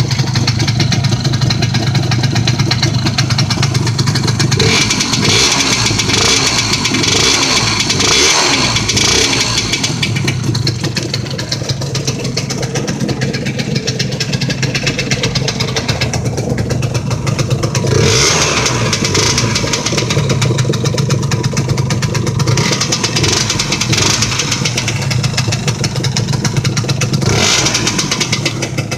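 Modenas Dinamik 120's single-cylinder two-stroke engine idling and being revved about four times, the first rev held for several seconds, while it is warmed up after standing unused for a long time.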